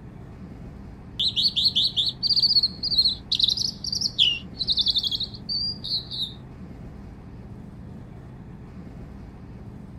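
A songbird sings a loud, varied phrase of rapid trills and chirps, starting about a second in and lasting about five seconds, over a steady low rumble.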